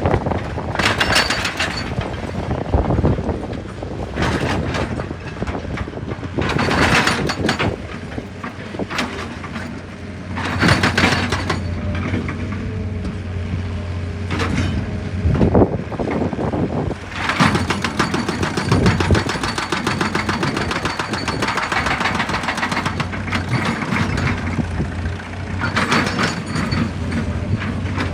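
Excavator diesel engine running under load, with loud surges of noise every few seconds and a stretch of rapid clicking and rattling past the middle.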